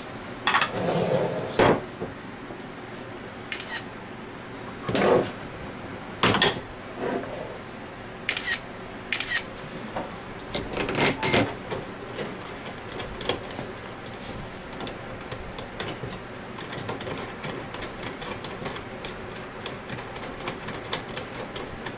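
Metal tools and pump parts knocking and clinking during bearing removal on a scroll pump, with a brief ringing metallic clink about halfway through. This is followed by a long run of light, rapid ticks.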